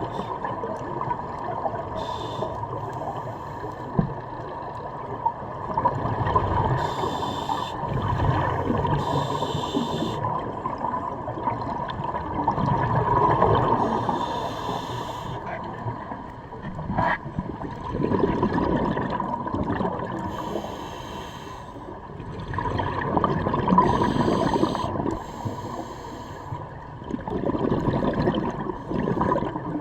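Scuba diver breathing underwater through a regulator: a hiss on each inhale, then a gurgling rush of exhaled bubbles, repeating every few seconds.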